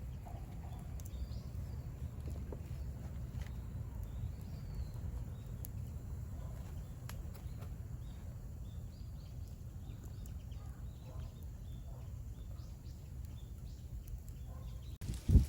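Outdoor ambience: a steady low rumble with faint, scattered wild-bird chirps, and one sharp thump near the end.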